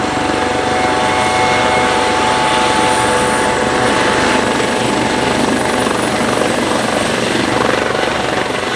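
Airbus AS365N3 Dauphin helicopter running at flight power, its twin turboshaft engines and rotors making a loud, steady rushing noise with a continuous whine over it.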